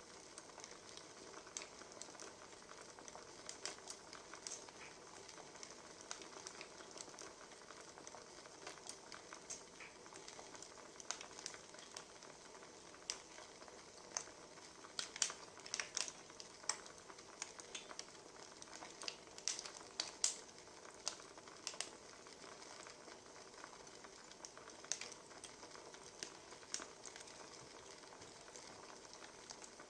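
Wood fire crackling: a steady soft hiss with scattered sharp pops and snaps, busiest around the middle.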